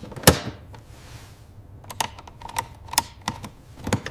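A series of sharp clicks and taps at irregular intervals. The loudest comes about a third of a second in, and a quicker run of clicks follows in the last two seconds, some with a short ringing tone.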